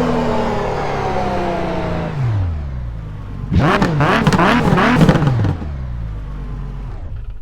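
Nissan GT-R GT3 race car engine, its pitch falling as it goes by. About three and a half seconds in, the engine revs sharply up and down about three times, the loudest part, then settles into a low steady drone.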